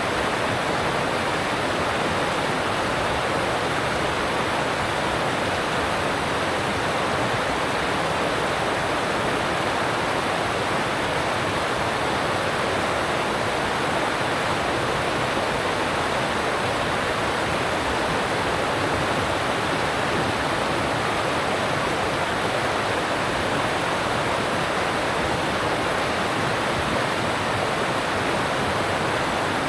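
Alpine stream rushing over rocks: a steady, unbroken rush of water.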